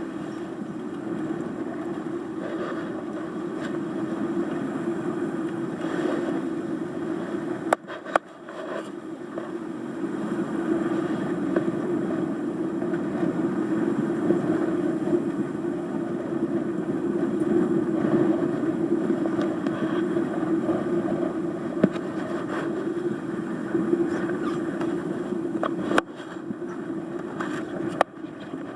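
Steady noise aboard a Beneteau 461 sailboat running fast downwind in a gale, with a few sharp clicks and brief dropouts.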